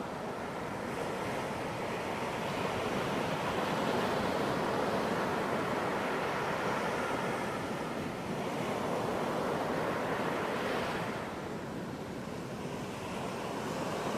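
Ocean waves washing onto a beach in a steady rushing surf that swells and eases, building about a third of the way in, easing, then swelling again before settling near the end.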